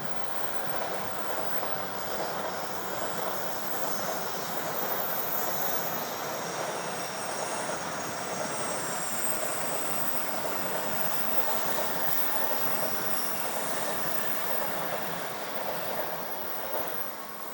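Coupled Shinkansen train, an E3 series Tsubasa joined to an E2 series Yamabiko, running past: a steady rush of wheels on rail with faint high whines above it, easing off near the end.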